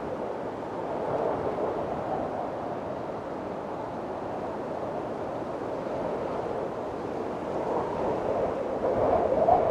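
Windstorm wind blowing in gusts: a rushing howl that wavers up and down in pitch, swelling louder near the end.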